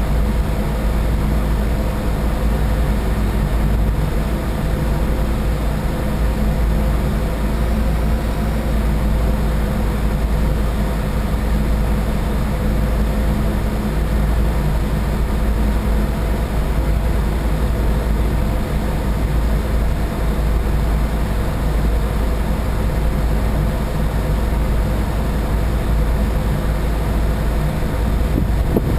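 Boat engine running steadily under way: a loud, unbroken low drone with a steady hum.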